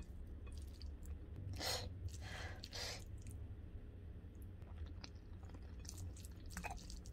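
Quiet eating sounds: a person chewing, with soft squishy clicks from fingers mixing rice, dal and potato fry, and two louder soft bursts about two seconds in. A low steady hum runs underneath.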